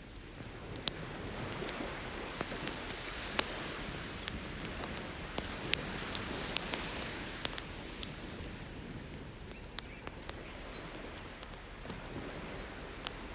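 Wood bonfire crackling with scattered sharp pops, over a steady wash of ocean surf that swells and eases.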